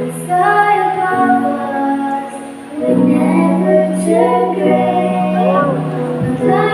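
Young female voices singing a song together in harmony over steady held low notes.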